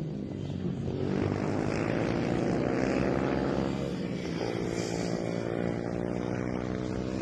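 Small 110cc mini GP motorcycle engines at racing revs, the pitch climbing, dropping about four seconds in, then climbing again as the bikes accelerate out of a corner.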